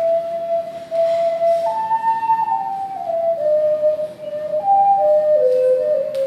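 Large, low-pitched ocarina playing a slow solo melody: one pure, flute-like tone stepping between held notes.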